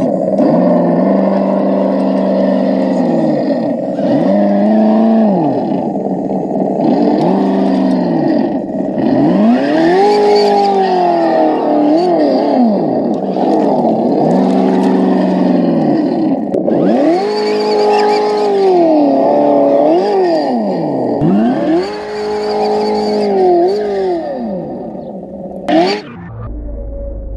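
Simulated truck engine sound from an RC truck's ESS-One sound unit, played through its small speaker, revving up and dropping back repeatedly with the throttle. It cuts off suddenly near the end.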